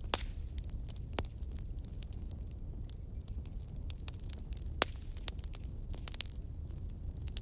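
Wood fire crackling: irregular sharp pops and snaps over a steady low rumble, with one louder snap about five seconds in.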